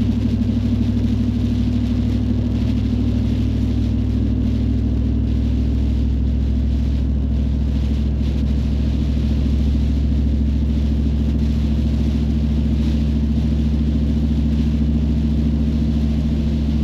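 Car driving at a steady speed on a wet road: a steady low engine and road drone with a fainter hiss of tyres and rain.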